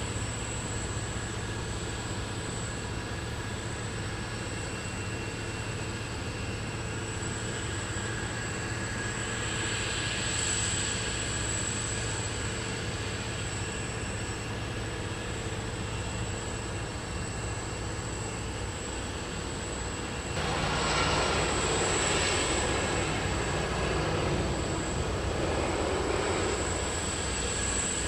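Jet aircraft engines: a steady hum with a thin high whine, then a sudden, louder rush of jet noise starting about twenty seconds in and holding to the end.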